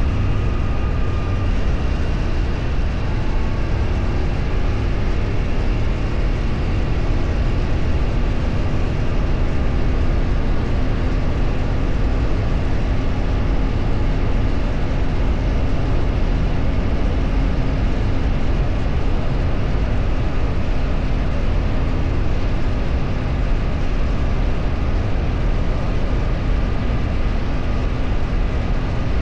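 Steady travel noise recorded from a moving vehicle on the road: engine running with a low rumble and a constant rush of wind and road noise, with no change in speed.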